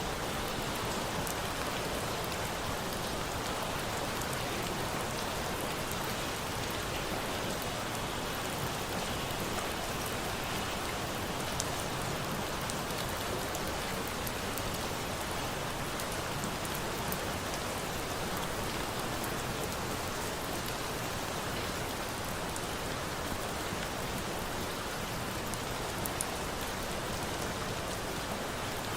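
Steady rain, an even hiss with sparse faint sharp ticks scattered through it.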